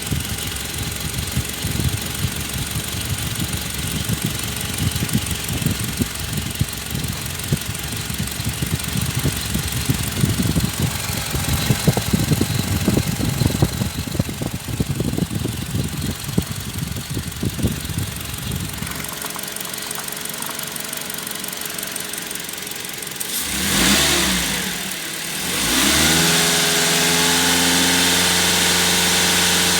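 Toyota HiAce 2.7-litre four-cylinder petrol engine idling unevenly for about the first two-thirds. It then goes quieter, is revved up and back down once, and is held at a steady, higher speed near the end.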